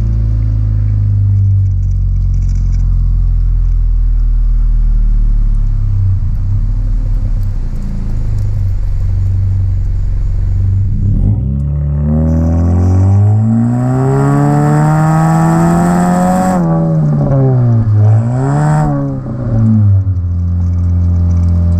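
Honda K20C2 2.0-litre four-cylinder through a Flowmaster DBX in place of the resonator: a steady low drone, then the revs climb smoothly for about five seconds before dropping sharply. A brief dip and blip of revs follows, and it settles back to a steady drone.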